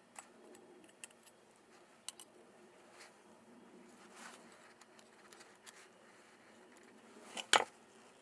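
Scattered light clicks and taps of small parts being handled, with one louder sharp clack about seven and a half seconds in.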